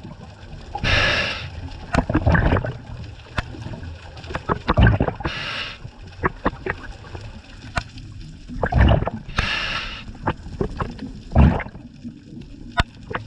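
Scuba diver breathing through a regulator underwater: three hissing inhales, about four to five seconds apart, each followed by low, gurgling rumbles of exhaled bubbles, with scattered small clicks.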